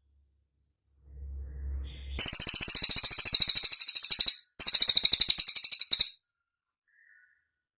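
Cililin bird singing: two bursts of very fast, high-pitched chattering trills, the first about two seconds long and the second about a second and a half, with a faint low hum just before them.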